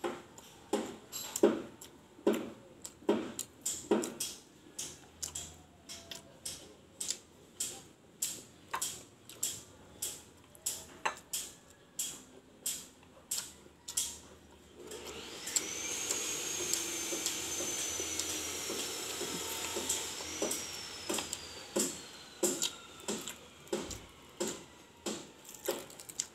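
Close-up chewing and mouth sounds, sharp clicks about twice a second. About halfway through, a construction power tool starts up and runs for about six seconds, its high whine sliding down in pitch as it winds down.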